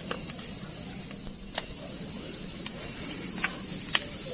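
A steady high-pitched chorus of forest insects, with a couple of sharp clicks about a second and a half in and near the end.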